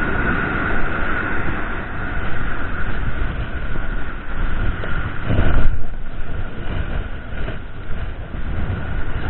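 Wind buffeting the microphone over the wash of the surf, a steady rumbling noise with a louder surge about five and a half seconds in.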